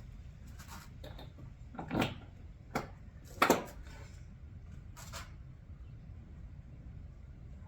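A few short knocks and clicks of handling, the loudest about two and three and a half seconds in, over a low steady rumble; the engine is not yet running.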